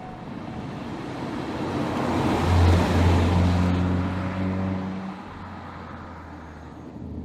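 A 2020 Audi S3's turbocharged four-cylinder engine and tyres as the car drives past. The sound swells to a peak about two and a half seconds in, then fades away.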